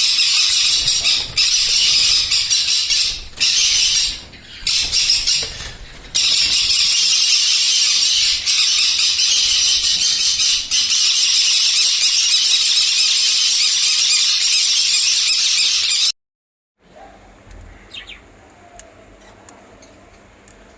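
Loud, dense chatter and screeching of a flock of small caged parrots (lovebirds, conures), with many calls overlapping into a continuous high-pitched din. It cuts off suddenly about sixteen seconds in, leaving only a few faint clicks and a single short chirp.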